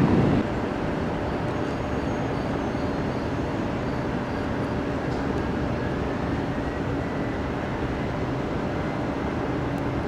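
Steady jet aircraft engine noise, an even rush with a faint steady hum under it.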